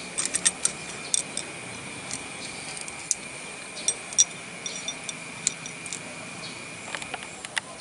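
Scattered light clicks and clinks of small hard parts being handled, several in quick succession at the start and again near the end, over a steady high-pitched whine.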